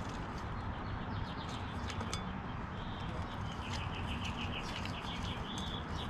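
Small birds chirping in quick runs of short, evenly spaced notes, once about a second in and again through the second half, with a few sharp clicks over a steady low rumble.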